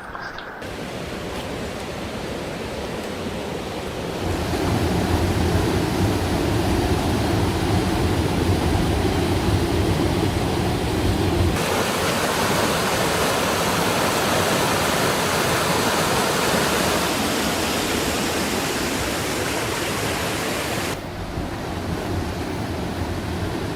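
Rushing water of a mountain stream and waterfall running high after the rainy season: a steady, even rush that changes abruptly in loudness and tone three times.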